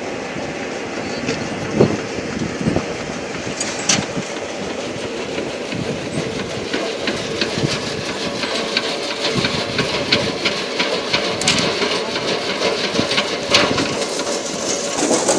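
Wet ginger washing and peeling machine running: a steady mechanical noise with frequent short clicks and knocks.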